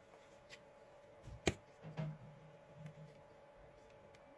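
Faint handling of a plastic electric shaver being taken apart: a few small ticks and taps, with one sharp click about a second and a half in.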